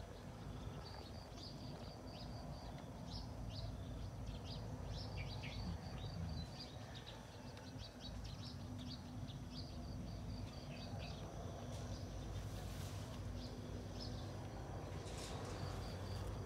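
Small birds chirping in quick runs of short, high notes, some sweeping downward. They pause for a few seconds past the middle, then start again near the end, over a steady low rumble.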